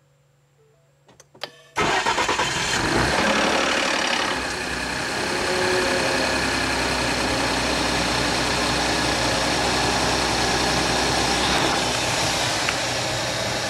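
Ford 2011 F-150's 3.5 L EcoBoost twin-turbo V6, heard from right on top of the engine, starting cold about two seconds in, after a few clicks, and then running at a steady fast idle. It makes a loud rattling, grinding noise from the top end of the engine on the cold start, which the dealer diagnosed as a timing chain problem.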